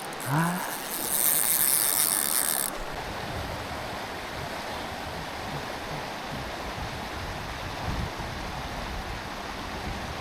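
Fly reel's click-and-pawl ratchet buzzing for about two and a half seconds as line runs off the spool, then the steady rush of the stream.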